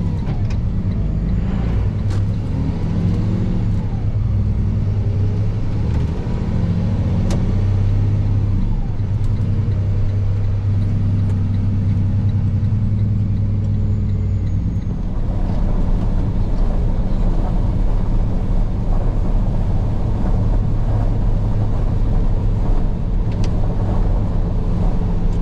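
Semi-truck diesel engine droning steadily while driving, with road noise. About fifteen seconds in, the engine tone eases and a louder, even rushing noise takes over.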